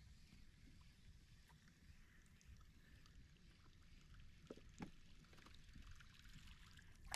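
Near silence: a faint low rumble with a few soft knocks, two about four and a half seconds in and one at the end.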